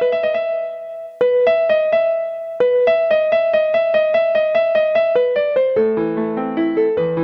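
Electronic keyboard playing a classical piano piece automatically, recorded straight from its output by cable. Quick repeated notes sound over a held note, with two brief breaks about one and two and a half seconds in, and lower chords join near the end.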